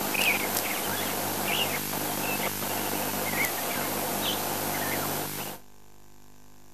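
Wild birds chirping and calling in short, rising and falling notes over a steady outdoor hiss; the sound cuts off abruptly about five and a half seconds in.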